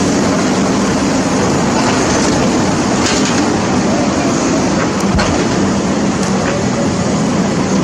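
An engine running steadily, a low hum under a loud, even rush of noise.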